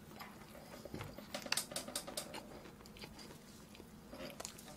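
Quiet eating sounds: chewing on boiled pork and pig's trotters, with scattered small clicks and smacks that come thickest about one and a half to two seconds in.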